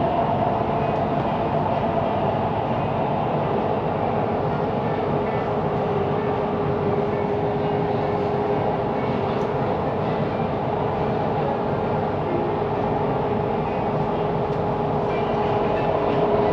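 Siemens Inspiro metro train running at steady speed, heard from inside the carriage: a weird rolling noise from the wheels on the rails, with a steady whine over it.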